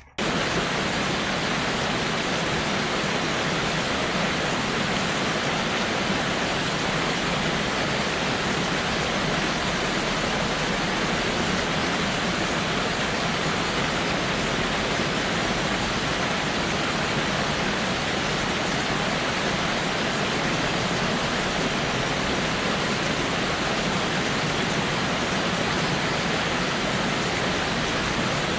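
Steady rushing of water, a loud even roar that starts suddenly and holds without change.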